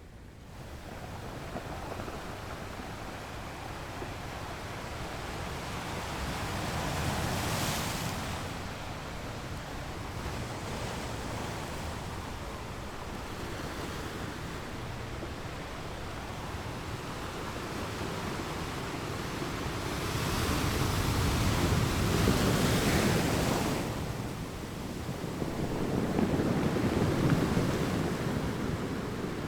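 Ocean waves breaking on rocks at a beach: a continuous rushing surf that swells and ebbs. Larger waves crash about a quarter of the way in and again over the last third, the loudest near the end.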